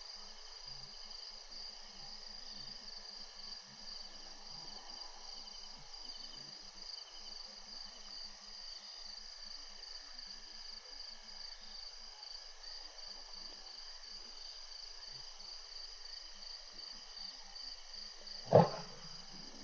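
Steady night chorus of crickets and other insects, trilling in several high bands. Near the end comes a single short, loud low sound that stands well above the chorus.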